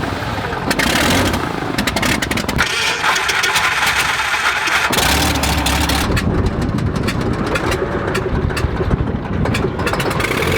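Light aircraft engine running, loud and noisy, its sound changing abruptly about three and five seconds in.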